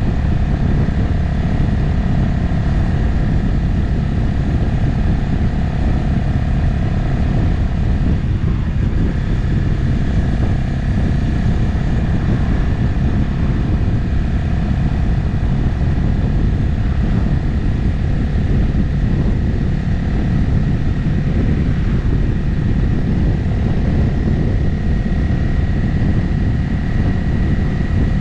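Motorcycle cruising at a steady speed, heard from on the bike: an even engine note over a constant low rumble of wind and road noise, its pitch shifting slightly about eight seconds in.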